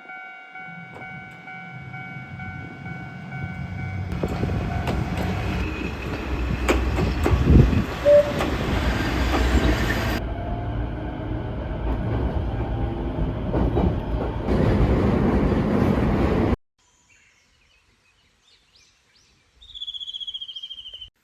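Diesel railcar on a local line running along the track: low engine rumble and wheel clatter, in several short clips that cut in and out abruptly. A steady tone of several pitches sounds over the first few seconds, and the train sound stops suddenly near the end, leaving near silence.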